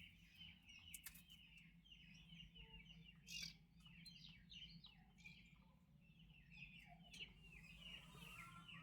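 Turkey poults peeping faintly and continuously, many short falling chirps overlapping, with a few soft clicks among them.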